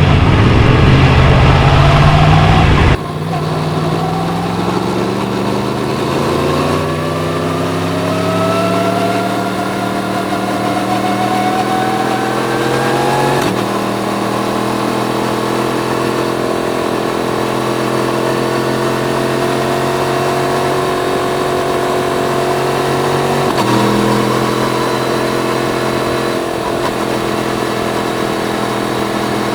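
Yamaha MT-10's crossplane inline-four engine under way. After a loud low rumble that cuts off about three seconds in, the engine note climbs steadily for about ten seconds, drops slightly on a gear change, then holds a steady cruising note with another change in pitch near the end.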